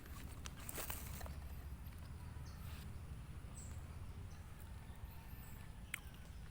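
Rural outdoor background: a steady low rumble, a short crackle about a second in, and a few faint, brief high chirps later on.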